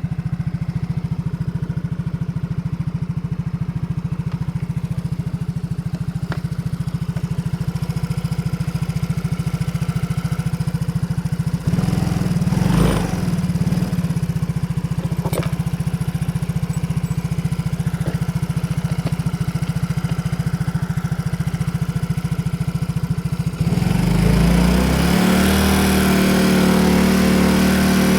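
Yamaha Cygnus X fourth-generation scooter's single-cylinder 125 cc engine idling, with a short blip of throttle about 12 seconds in, then revved up and held at higher speed from about 24 seconds in. It carries an abnormal engine noise that has persisted after the piston and piston pin were replaced twice, a noise the shop has called normal.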